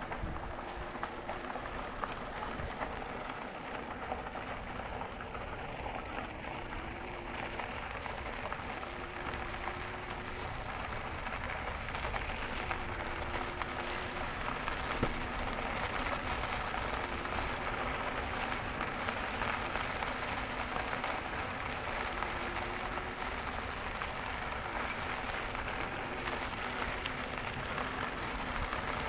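E-bike tyres rolling over a gravel trail, making a steady crunching hiss. A faint, short, wavering whine comes back every few seconds.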